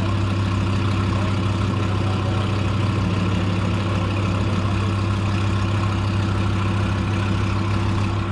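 Loud car engine idling steadily, a deep, even note with no revving.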